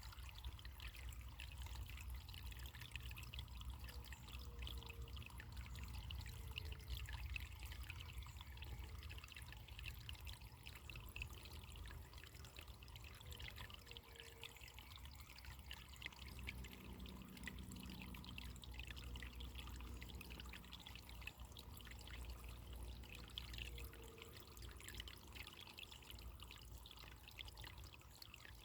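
Running water trickling steadily and faintly, with a low rumble underneath.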